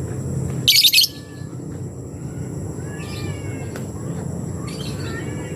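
Lebet bird calls over a steady low background hum. A loud, harsh, hissy burst comes about a second in, followed by two short runs of thin chirps around three and five seconds.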